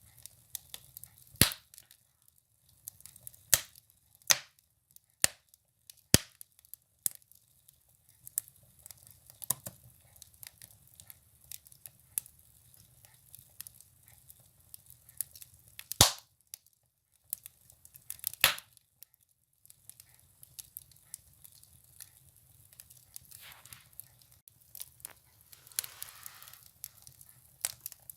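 Firewood burning in a stove: irregular crackling with scattered sharp pops, a few of them loud.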